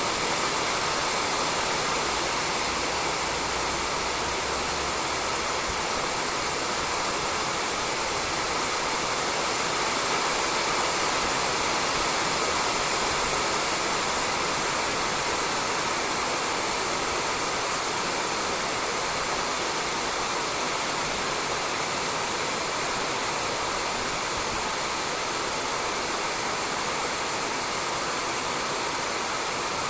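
Steady rain falling on a roof, an even hiss with no individual drops or breaks.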